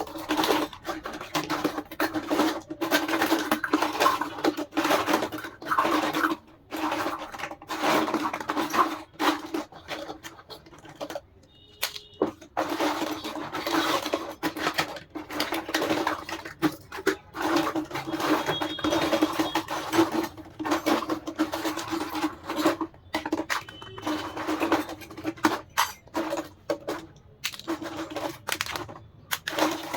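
Plastic dollhouse pieces and packaging being handled close to the microphone: a dense run of irregular clicks, taps and scratches, with a short pause about twelve seconds in.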